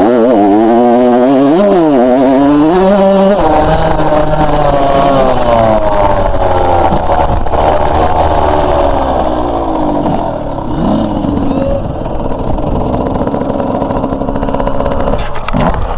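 Two-stroke motocross bike engine revving up and down as it is ridden, its pitch repeatedly rising and falling. After about ten seconds it drops back to lower, rougher running.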